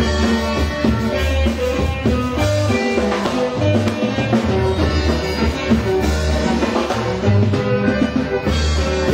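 Norteño band playing live, an instrumental passage without singing, with bass and drums keeping a steady beat under sustained melody notes.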